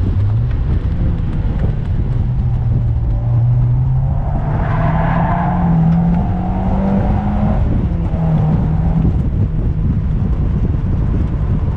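Engine of a Mazda MX-5 NC with a 2.5-litre swap revving up under hard acceleration, its note climbing steadily for about seven seconds. Near eight seconds in the pitch drops sharply, then the note fades out about a second later. Heard from inside the open-top cabin over heavy wind and road rumble.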